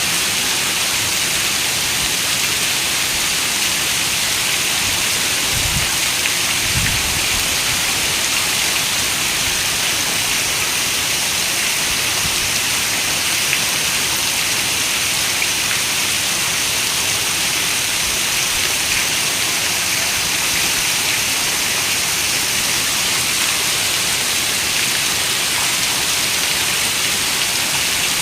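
Steady rain falling: an even hiss, brightest in the upper range, with two brief low rumbles about six and seven seconds in.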